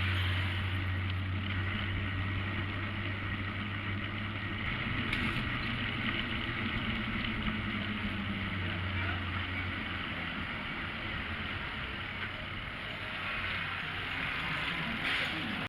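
Street traffic noise: a motor vehicle engine's low, steady hum through the first half or so, fading after about nine seconds, over continuous road and wind noise.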